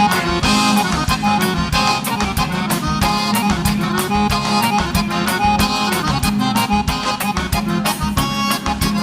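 Live gaúcho vaneira music, an instrumental passage led by accordion over a regular, quick beat.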